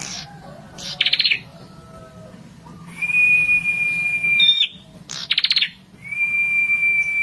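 Prenjak (prinia) singing: long, level whistled notes of a second or more, one flicking up in pitch at its end, alternating twice with short, quick rattles of about six notes.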